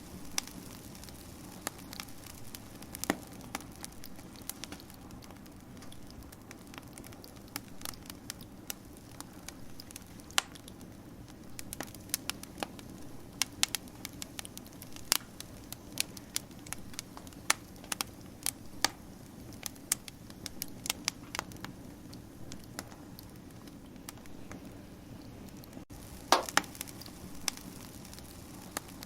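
Fire crackling: irregular sharp pops and snaps, some louder than others, over a steady low hiss.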